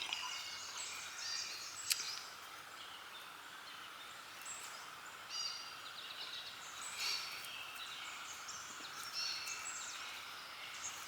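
Songbirds singing short chirping phrases every second or two over a steady faint background hum, with one sharp click about two seconds in.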